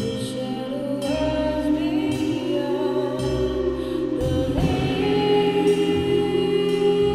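Live experimental indie band playing, with singing over held, layered tones and a low bass that comes and goes about once a second. A pitch glides upward about four and a half seconds in.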